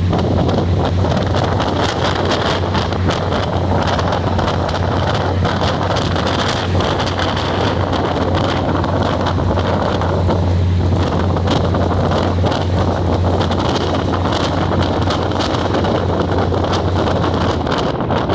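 Passenger train running, heard from on board: a steady low rumble and hum with wind buffeting the microphone and many small clicks and rattles.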